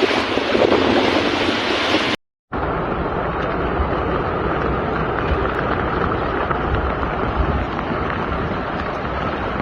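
Floodwater rushing in a torrent, a steady loud roar of water. About two seconds in it cuts briefly to silence, then carries on as a deeper, more rumbling rush.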